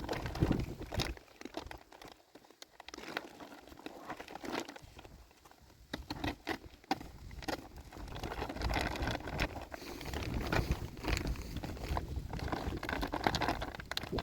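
Plastic sheeting rustling and crinkling in irregular bursts of crackles, with wind rumbling on the microphone. It is quieter from about two to six seconds in.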